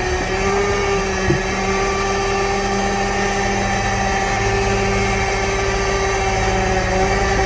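A 1940s GMC logging truck's engine running steadily, with a constant whining tone over the rumble and one light knock a little over a second in.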